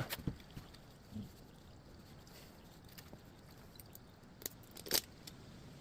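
Faint handling noises: a few soft clicks and a short scuffing noise near the end, over quiet room tone, as an oil filter is turned over in the hands.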